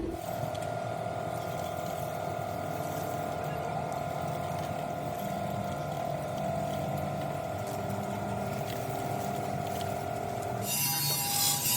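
A workshop machine's motor running with a steady whine. Near the end the whine stops and a loud hiss takes over.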